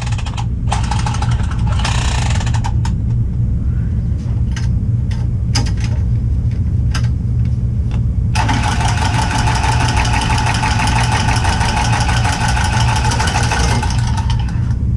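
A steady low machine drone with scattered clicks and knocks. About eight seconds in, a loud hiss carrying a steady whine joins for some six seconds, then fades.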